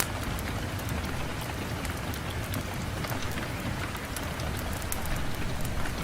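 Steady rain falling on a window, a constant hiss with many small drop ticks scattered through it and a low rumble underneath.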